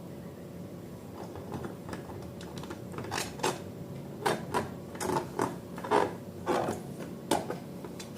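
Irregular short clicks and taps from objects being handled, sparse at first and then coming about once or twice a second, over a low steady hum.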